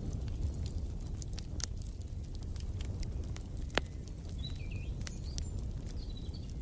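Wood fire crackling in a fireplace: a low steady rumble with many sharp crackles and pops, one louder pop near the middle. From about halfway on, short high bird chirps.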